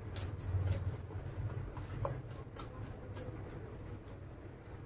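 Close-up chewing of raw leafy greens, with short crisp crunches and wet mouth clicks at irregular moments.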